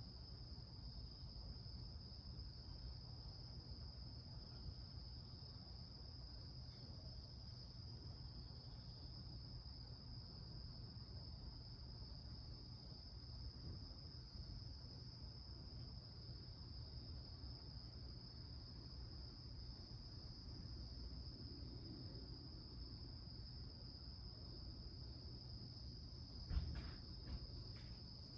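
Insects chirping steadily in the evening: a continuous high trill with a quicker, even pulsing at a higher pitch, over a faint low rumble. Near the end come a couple of sharp clicks.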